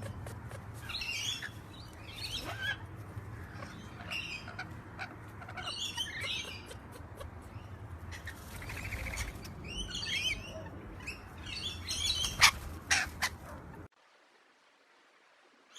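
Parrots chirping and chattering in short repeated phrases with a few sharp clicks, over a steady low hum. The recording cuts off abruptly near the end.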